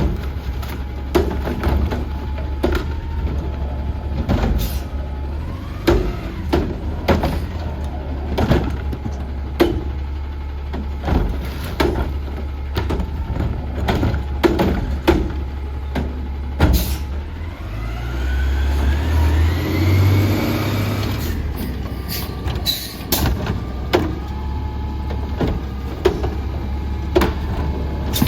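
Autocar ACX garbage truck engine idling steadily under a run of short clanks and knocks. About two-thirds of the way through, the engine revs up with a rising whine, as for driving its hydraulics, then drops back to idle.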